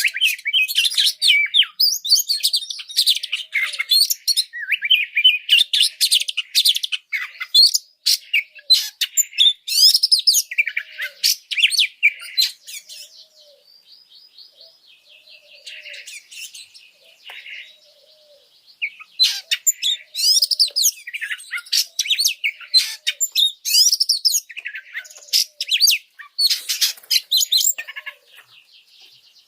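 Oriental magpie-robin (kacer) singing in fast, varied runs of whistles and chattering notes, the high-agitation ('emosi') song played as a masteran recording to tutor and rouse caged birds. The singing drops to softer twittering about thirteen seconds in, then comes back loud after about six seconds.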